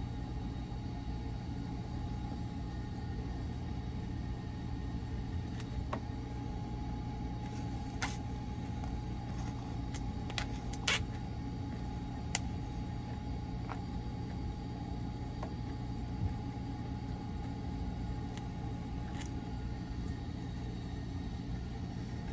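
Steady low rumble and hum of the Sunrise Seto sleeper train running, heard inside its compartment. A few light clicks of wooden chopsticks against the wooden bento box come through it, the sharpest a little before the middle.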